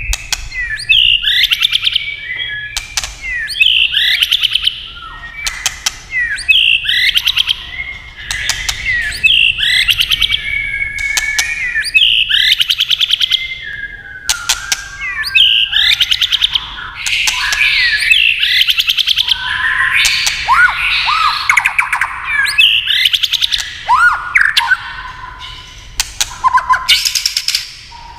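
White-rumped shama singing: varied whistled and warbled phrases with quick pitch sweeps, alternating with runs of hard, rapid ticking clicks, the shama's 'tạch' call given as it flicks its tail.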